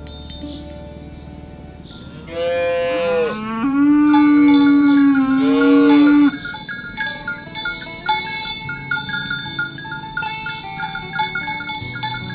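A cow mooing once, one long call of about four seconds starting about two seconds in, over background music of chimes and bells.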